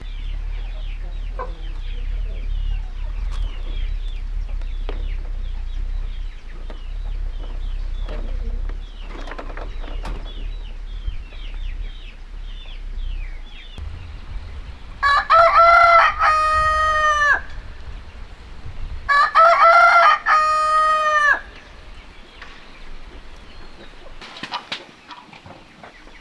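A rooster crowing twice, each crow about two and a half seconds long and loud, the second following a couple of seconds after the first. Before them a low rumble and faint, quick high chirps run underneath.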